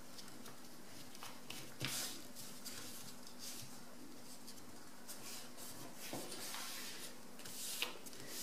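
A sheet of paper being folded and creased by hand, in several short rustling strokes as the fold is pressed flat, over a faint steady hum.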